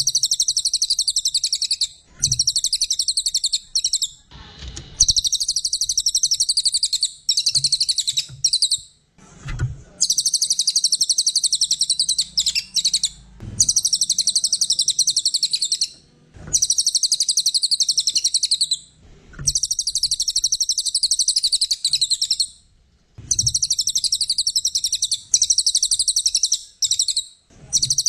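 A cililin, an Indonesian songbird, singing vigorously (gacor) in repeated bursts of very rapid, high-pitched trilling notes. Each burst lasts two to three seconds, with short pauses between.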